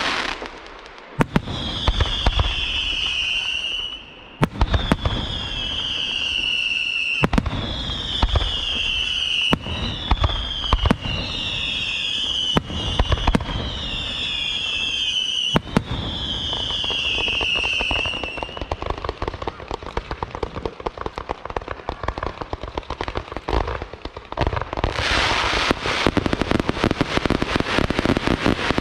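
Aerial fireworks display: about seven whistling fireworks in a row, each a piercing whistle gliding slightly downward for a second or so, with sharp bangs between them. After that comes a dense run of rapid crackling, which swells into a louder, thicker crackle near the end.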